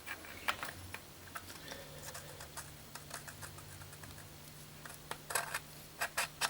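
Light clicks and taps of small metal engine parts being handled, with a cluster of sharper clicks near the end, as the hydraulic valve lifters are fitted. A faint steady hum starts about one and a half seconds in.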